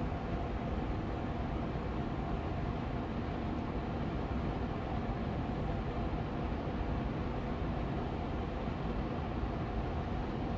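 Austin Air Allergy Machine air purifier fan running steadily on medium speed. It gives an even, low whooshing hum with a faint steady tone.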